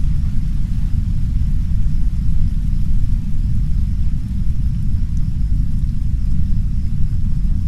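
Heavy brown noise: a steady, dense low rumble with no pitch or rhythm, with soft rain faintly hissing over it.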